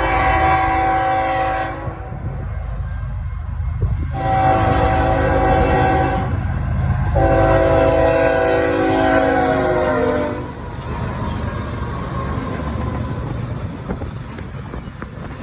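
Diesel locomotive air horn sounding a chord in three blasts, the last the longest, typical of a train horn signalling for a grade crossing. A fast freight train rumbles by underneath and keeps going after the horn stops.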